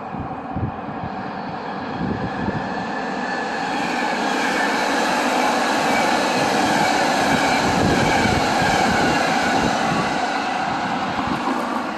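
BART train running past on the rails, a steady rumble and rush that grows louder over the first few seconds and then holds, with a few knocks early on.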